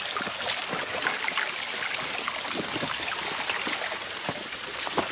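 Creek water running over rocks, a steady rush with scattered short splashes and clicks through it.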